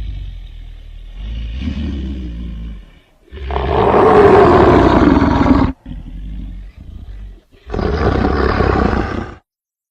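Edited big-cat-style growls and roars, panther-like. Low growling, then a loud roar about three seconds in that falls in pitch, more growling, and a second roar near the end that cuts off suddenly.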